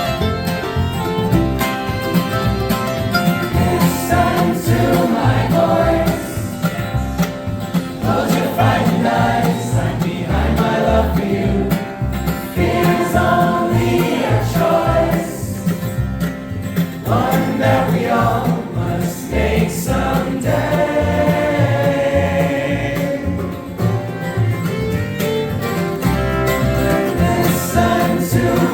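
Live acoustic folk band playing, with group vocal harmonies over guitar.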